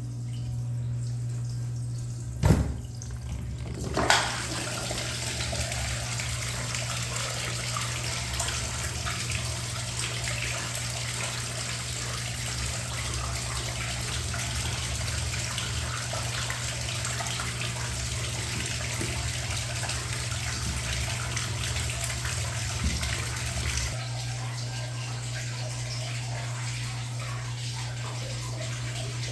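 Water running and splashing in a top-load washing machine over a steady low hum. Two sharp knocks come just before the water starts, and the rush of water falls away about five seconds before the end.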